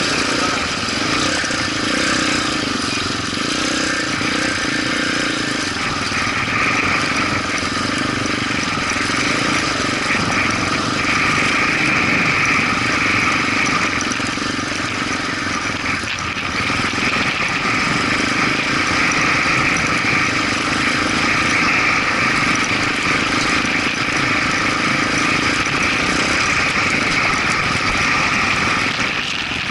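Motorcycle engine running steadily with a continuous drone.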